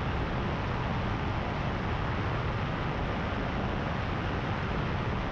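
Power2Fly RS powered paraglider's engine and propeller running steadily in flight, as an even drone with rushing noise.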